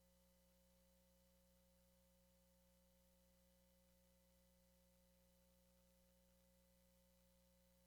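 Near silence: only a faint, unchanging electrical hum with a few steady tones under low hiss.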